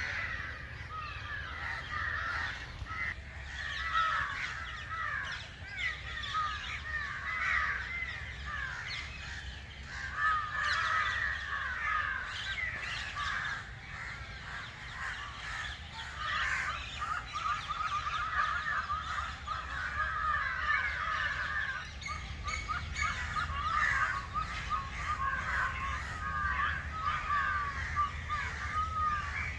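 A flock of birds calling at once: a dense, continuous chorus of many short, overlapping chirps and swooping calls, with a steady low rumble underneath.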